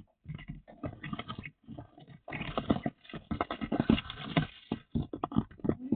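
Chickens moving about, with dense, irregular scratching, tapping and rustling.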